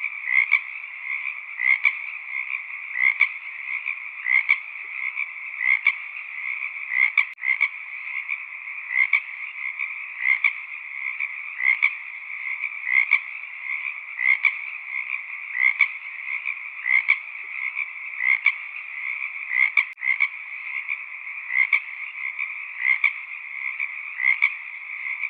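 A chorus of frogs calling steadily, with louder calls standing out about every second and a bit over a continuous background of calls.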